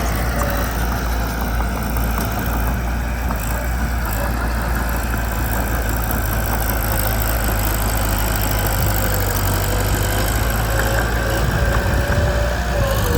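Diesel engine of a Mitsubishi BD2 small bulldozer running steadily, a low hum with a faint wavering whine above it.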